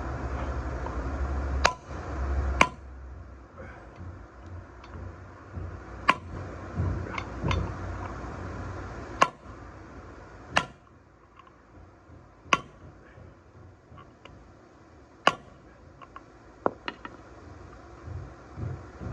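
Hammer striking a steel bearing race to drive it into a full-floating rear axle hub: about a dozen separate blows spaced a second or more apart, each with a short metallic ring, seating the race in its bore.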